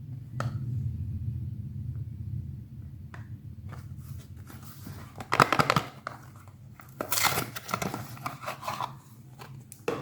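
Soap-bar packaging being torn open and unwrapped by hand: a few small clicks, then two bursts of crinkling and tearing, the first short, the second longer and broken up, over a steady low hum.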